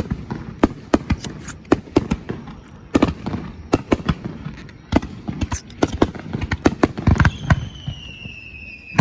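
Fireworks bursting in rapid, irregular succession, several sharp bangs and pops a second. A long thin whistle, slowly falling in pitch, joins near the end.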